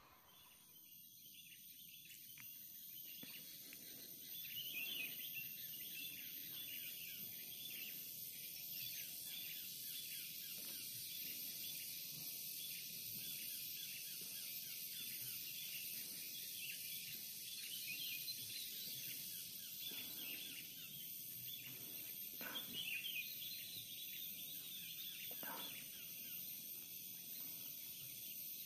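Short bird chirps now and then over a steady high-pitched hiss, with a couple of faint clicks about two-thirds of the way through.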